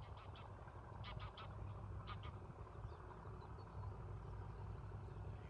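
Birds calling: a few short honking calls in quick groups during the first half, over a low steady rumble.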